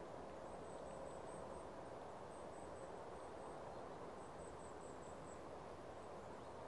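Faint steady outdoor background noise with three short runs of very high, thin, rapid call notes from a small bird.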